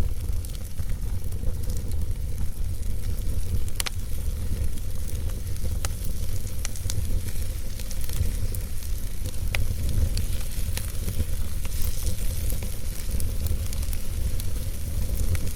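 Wood fire burning in a fireplace: a steady low rumble and hiss with scattered sharp crackles and pops, a few louder snaps around 4, 6 and 9.5 seconds in.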